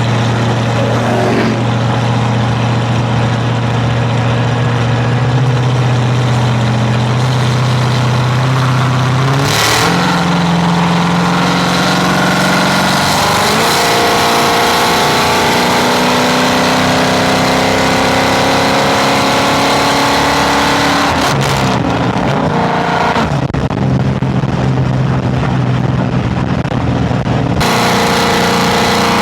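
A vehicle engine under way, running steadily, then climbing slowly in pitch through the middle before dropping back, with stepwise pitch changes like gear shifts.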